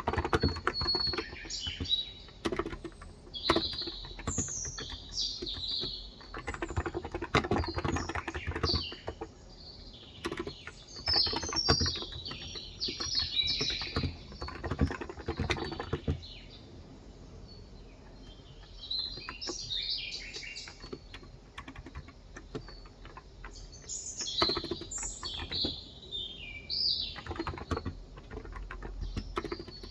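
Typing in quick runs of soft keystrokes on a Cox Endeavor tenkeyless keyboard with 35g electro-capacitive (contactless) switches. The typing goes sparse for several seconds past the middle, then picks up again near the end. Birds chirp throughout.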